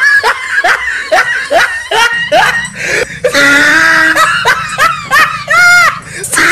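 High-pitched laughter from a comic voice-over, a quick run of short gliding syllables about three a second, followed by longer drawn-out, arching laughing calls.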